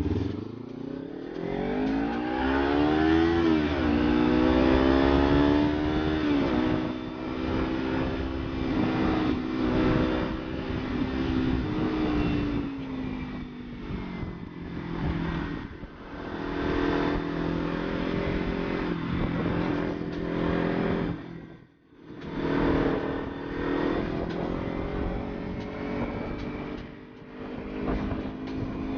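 Motorcycle engine accelerating through the gears: the pitch climbs steeply for about three seconds, drops at a gear change, then holds at a steady cruise with wind rushing over the bike. The engine sound drops out briefly about three-quarters of the way through and then picks up again.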